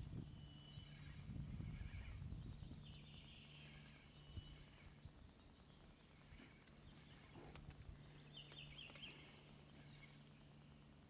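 Faint birdsong: scattered short chirps over a quiet background with a low steady hum, and a few soft knocks.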